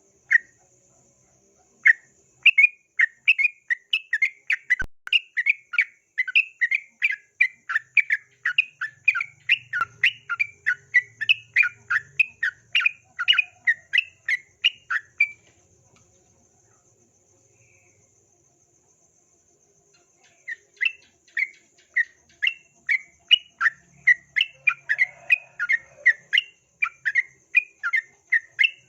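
Yellow-vented bulbul (trucukan) song: a fast run of short, sharp repeated notes, about three a second, which breaks off about halfway through and resumes after a pause of a few seconds.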